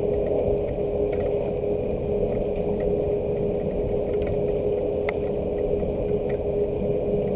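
Steady low machine hum with one constant tone, with scattered faint drips or taps of rain over it.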